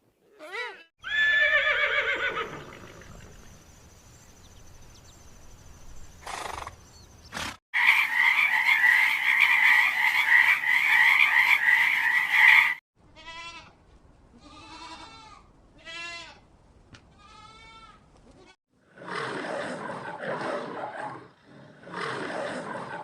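A series of farm animal calls. A short call comes about a second in, then a long, loud, wavering call midway, several short pitched calls after it, and two rougher, noisier calls near the end.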